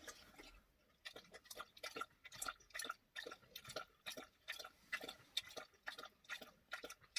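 A dog's mouth working, licking and chewing: a run of small, faint clicks, a few a second, starting about a second in.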